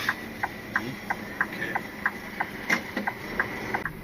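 Lorry cab turn-signal ticking evenly, about three ticks a second, over the low running of the truck's engine.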